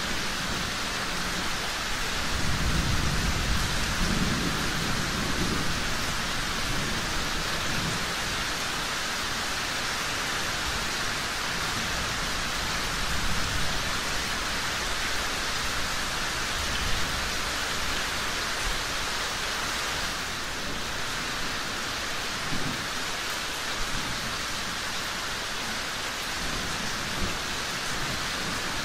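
Steady heavy rain, with a low rumble of distant thunder a couple of seconds in and a few sharp ticks later on.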